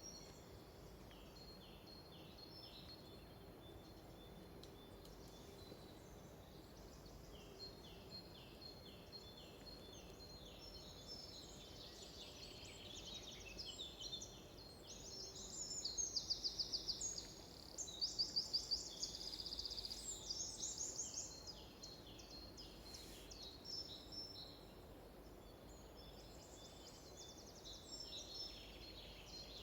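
Songbirds singing in a forest, several short repeated phrases overlapping. The song grows loudest in the middle with fast, rapidly repeated trills, then thins out again.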